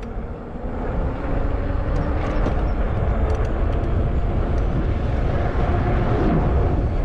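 Wind rushing over the camera microphone with tyre and road noise from an e-bike riding along, a steady rush that grows louder about a second in.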